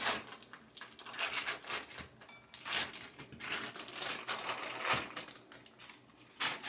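Foil wrapper of a brick of cream cheese crinkling in a run of irregular rustles as it is unwrapped.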